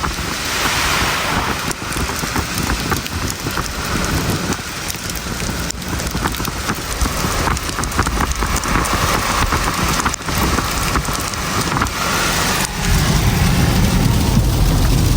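A car driving through a snowstorm on an icy road: steady tyre and road noise, with many small sharp ticks of snow and ice striking the car. A deeper rumble grows louder near the end.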